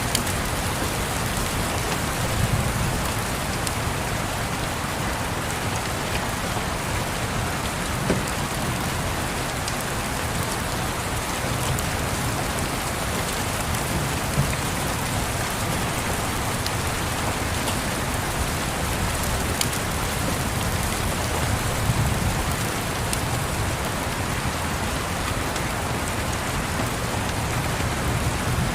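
Steady rain tapping, mixed with a fireplace crackling: a few sharp pops stand out, the clearest about eight seconds in and again about fourteen seconds in. Under it runs a low rumble that swells and fades now and then.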